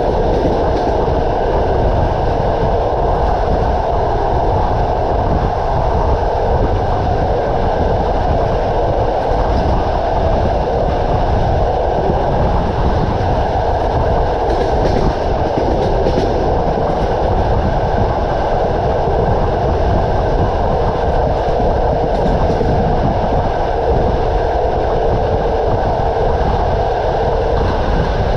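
A passenger train running along the track: the steady running noise of its wheels on the rails, with no break or change.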